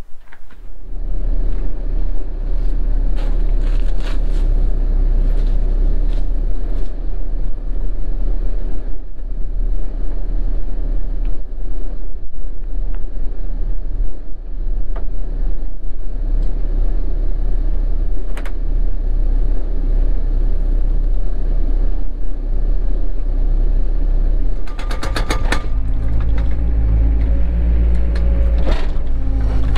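Cat 307 mini excavator's diesel engine and hydraulics running under work, a steady drone with scattered clicks and knocks. About 25 seconds in the sound changes: a quick rattle of clicks, then a steadier pitched engine note.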